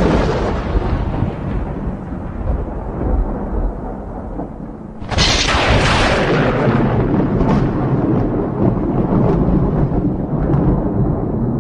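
Thunder: a deep rumble dies away over the first few seconds, then a second sharp clap comes about five seconds in and rolls on with scattered crackles.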